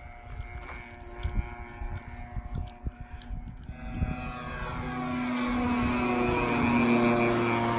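Two-stroke 15cc gas engine of a radio-controlled Piper Cub in flight. At first it is faint under low thumps of wind on the microphone, then about halfway through it grows steadily louder as the plane comes closer, peaking near the end with a slight drop in pitch as it passes.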